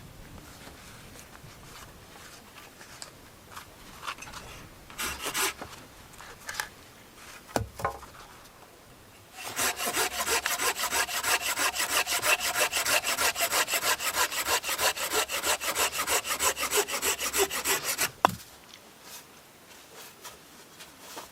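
Saw cutting through wood in quick, even back-and-forth strokes for about nine seconds, stopping abruptly. Before the sawing starts there are a few scattered knocks and handling noises.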